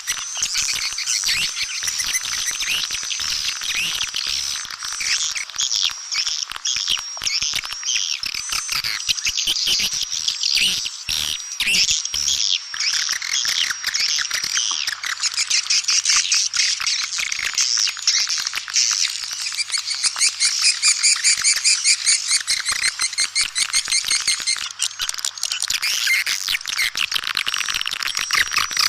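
Swiftlets twittering: a dense, continuous chatter of high chirps, with fast, evenly repeated runs of chirps in the second half. It is a swiftlet calling sound, the recording used to lure swiftlets.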